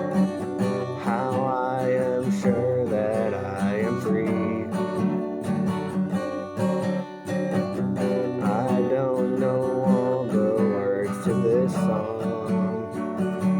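Acoustic guitar with a capo on the 2nd fret, strummed steadily through simple open chords. In two stretches, about a second in and again past the middle, a voice sings along without clear words.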